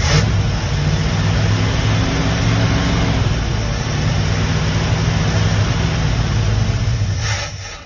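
1975 Winnebago Brave engine running steadily on gas poured into the carburetor, then dying out at the end. The owner suspects a stuck carburetor float.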